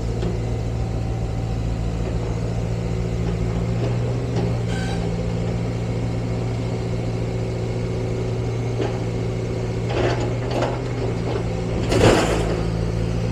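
Diesel engine of a demolition machine running steadily, with a few clattering crashes of falling rubble near the end, the loudest about twelve seconds in.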